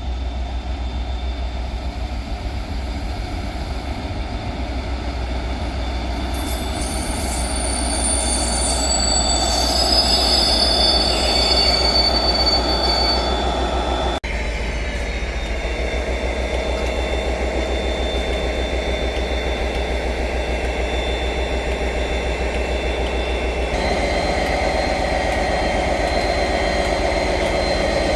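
A train moving along the track at close range, with high-pitched wheel squeal for several seconds from about six seconds in, over a steady low rumble.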